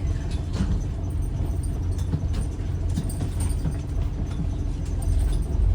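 Scania N94UD Omnidekka double-decker bus heard from inside while on the move: a steady low engine and road rumble with scattered light clicks and rattles.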